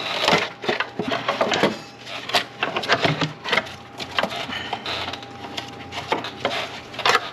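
Rapid irregular knocks, clicks and scrapes of hands and tools working a hard engine valve cover loose, with several sharp cracks.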